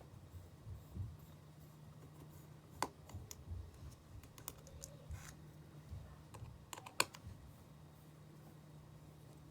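Small tools clicking and tapping against the parts of an iPhone 5 during disassembly: scattered sharp ticks, the loudest a quick pair about seven seconds in, over a steady low hum.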